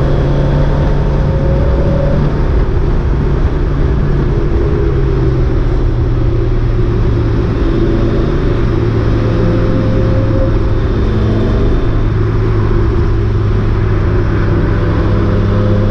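Mazda MX-5 race car's engine running steadily, heard from inside the car over road and wind noise. The revs ease down a little in the first few seconds and then hold steady.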